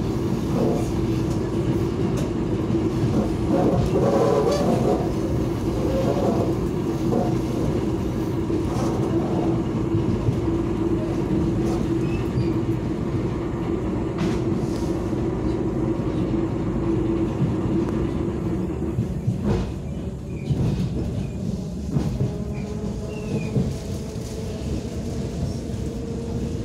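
Inside the carriage of a suburban electric train running along the track: a steady rumble and rattle of the car with a steady hum that stops about nineteen seconds in, followed by a few sharp knocks.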